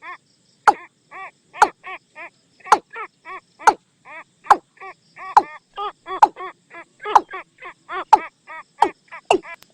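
Recorded watercock calls played as a decoy to lure the birds: a steady run of short arched notes about three a second, with a louder, sharper note about once a second.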